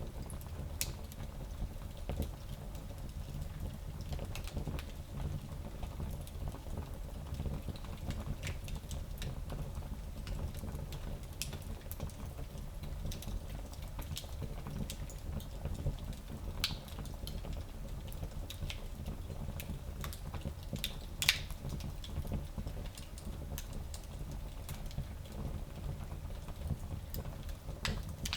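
Wood fire crackling in a small fireplace: scattered small pops and snaps over a steady low rumble, with one sharper pop about two-thirds of the way through.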